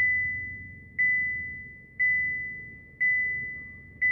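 Electronic chime dinging about once a second. Each ding is a single high, pure tone that fades away before the next.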